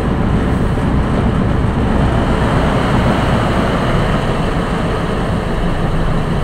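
Flathead Ford engine of a railway crew speeder idling steadily just after a cold start, heard from inside the car.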